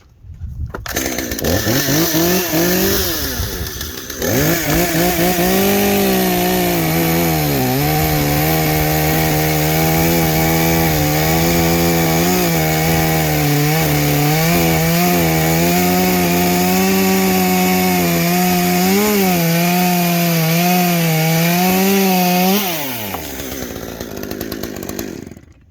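Stock Stihl 201T two-stroke top-handle chainsaw running: it revs up, is held at high revs with small dips for about seventeen seconds, as in a long cut through wood, then the throttle is released and it drops back to idle and dies away near the end.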